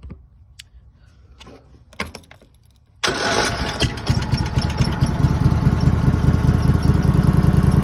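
Riding lawn mower engine cold-started after three days of sitting: a few faint clicks and a short knock, then about three seconds in the engine catches all at once and settles into a steady run.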